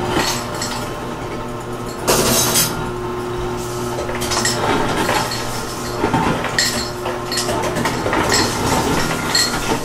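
Dishes clinking and knocking several times, over a steady low hum.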